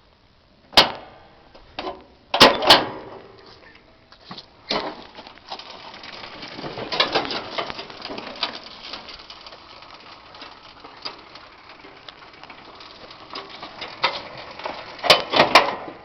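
Irregular sharp knocks and clatter, like things being handled or struck. The loudest knocks come about a second in and near two and a half seconds, with a busier stretch in the middle and a quick cluster of knocks near the end.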